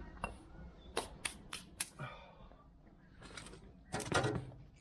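Loose metal parts being handled and knocked together, a series of sharp clicks and clinks with a louder cluster near the end.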